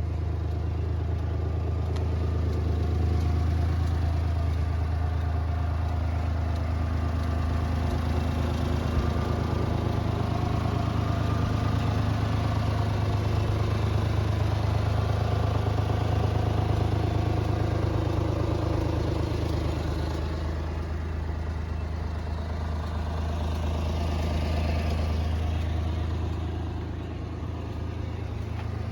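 Honda Acty mini truck's small three-cylinder engine idling steadily.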